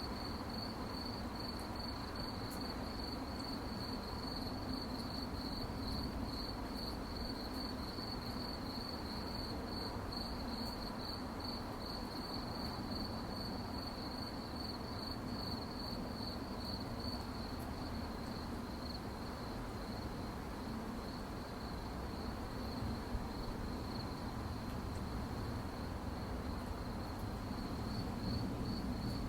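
Crickets chirping at night in a fast, steady, high-pitched trill that grows fainter a little over halfway through, over a steady low background rumble.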